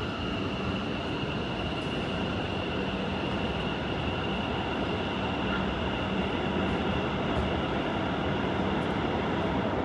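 A train running past on its rails: a steady dense rolling noise with a steady high whine above it, growing slightly louder toward the end.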